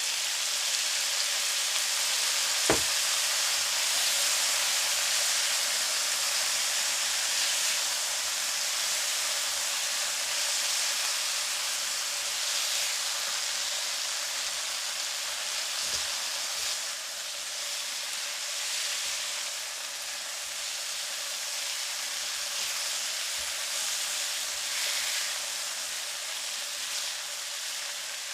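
Chicken drumsticks with ginger, onion and garlic sizzling steadily in a frying pan as they sauté with fish sauce. Two short sharp knocks, about three seconds in and again about sixteen seconds in.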